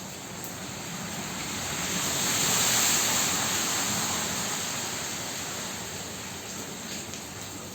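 Heavy rain falling in a steady rush, driven by strong wind. The rush swells much louder for a few seconds in the middle, as a gust drives the rain harder, then eases back.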